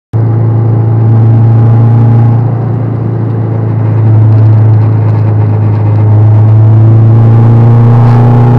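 Honda Civic's four-cylinder engine heard from inside the cabin, running loud under load at fairly steady revs. It eases off briefly about two and a half seconds in, then comes back up to full volume around four seconds.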